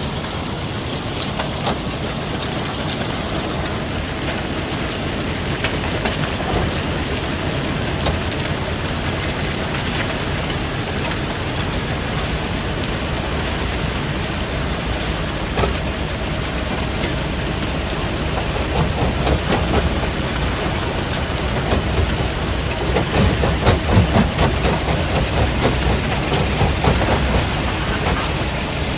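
Stone crusher plant machinery running, with a steady din and rocks clattering through it; the clattering grows louder in the last third.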